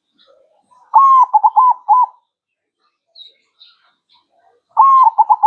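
Zebra dove (perkutut) cooing: two phrases about four seconds apart, each a long opening coo followed by several quick short coos.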